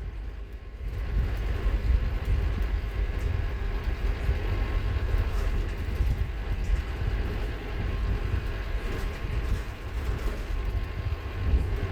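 Scania K230UB Omnilink bus's diesel engine and driveline running, heard from on board as a steady deep rumble with road and body noise.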